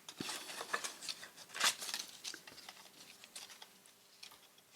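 Scissors snipping and paper being handled: a few short crisp cuts and rustles, busiest in the first couple of seconds, then fainter.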